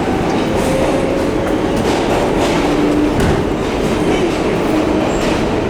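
New York City 6 train subway car running, heard from inside the car: a steady loud rumble with clicks from the wheels over the rails and a faint held whine.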